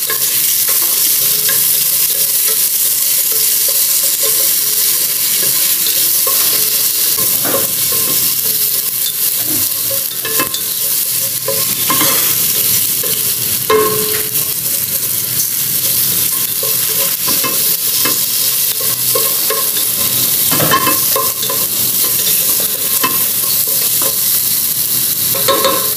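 Garlic, onion and tomato sizzling in hot oil in a stainless steel pot as they are sautéed. A wooden spoon stirs them, now and then scraping and knocking against the pot.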